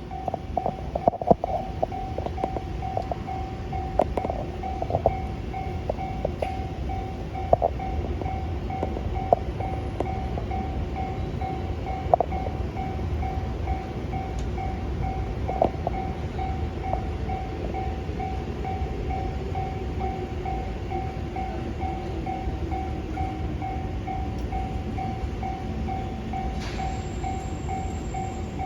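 A level-crossing warning bell rings in an even repeating beat while a 201 series electric train runs past with a steady low rumble. Sharp clacks come from the wheels over the rails, mostly in the first half.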